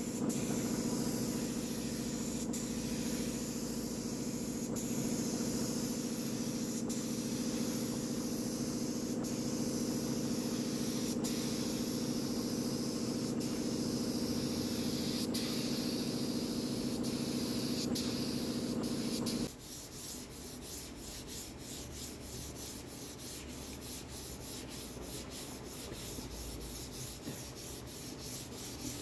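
Wood being sanded. For the first two-thirds an electric sander runs steadily, its motor hum under the scratch of the abrasive. It then cuts off suddenly and gives way to quick, even rubbing strokes, several a second.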